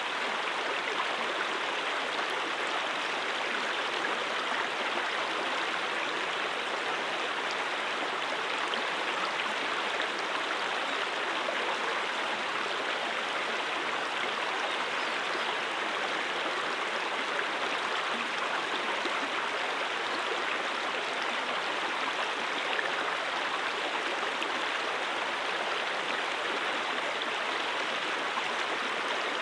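A brook flowing steadily: an even, unbroken rush and babble of running water.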